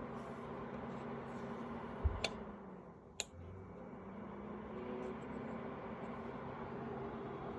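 Electric quartz tower space heater running with a steady fan hum. About two seconds in there is a low thump and a sharp click, and about three seconds in a second sharp click, after which the hum comes back up.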